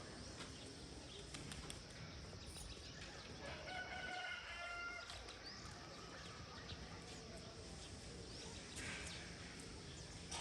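A rooster crows once, about three and a half seconds in, over a steady faint background hiss, with a few short high bird chirps here and there.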